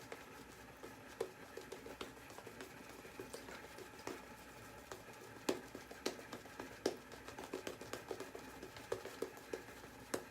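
Razor blade scraping through lathered stubble on the face: faint, irregular short scratchy clicks during a touch-up shaving pass.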